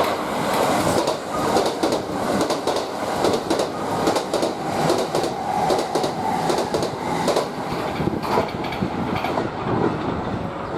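Kintetsu limited express electric train running past the platform, its wheels clacking in a rapid rhythm over the rail joints.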